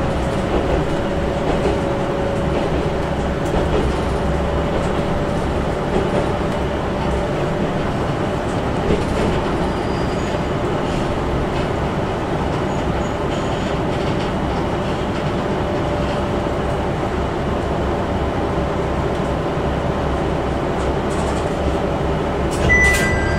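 Cabin sound of a Tenryu Hamanako Railroad diesel railcar running at speed: a steady rumble of engine and wheels on the rails, with a steady whine through most of it. A few short high beeps begin just before the end.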